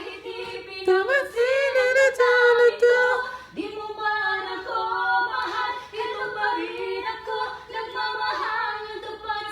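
Two voices singing a Filipino song as a duet, harmonizing, with a roomy reverb from singing under a staircase.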